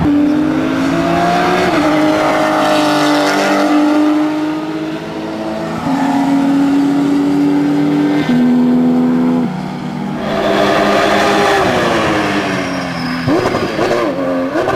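Porsche 997 GT3 Cup's flat-six race engine running loud at high revs, its pitch holding and then stepping up or down several times. Near the end come quick rising-and-falling revs, like throttle blips on downshifts.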